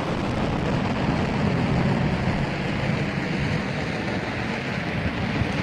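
Steady, even roar of the Blue Origin New Shepard rocket's BE-3 liquid-hydrogen engine climbing after liftoff, heard from the ground as a deep rumble.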